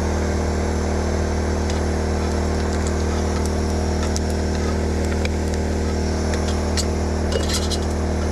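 Portable generator running steadily with an even low hum. Over it come scattered light clicks and crackles, clustering near the end, from food frying in grease.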